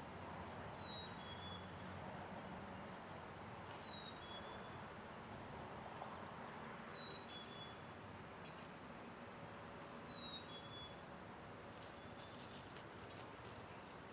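Songbird calling: a short, high two-note phrase repeated about every three seconds over faint outdoor background noise. A brief burst of fine rapid ticking comes near the end.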